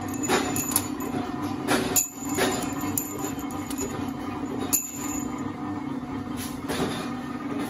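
Steel-frame punch press running with a steady hum while shearing 12 mm round steel bar, with several sharp metallic clanks at irregular intervals as the cut pieces and rod strike metal.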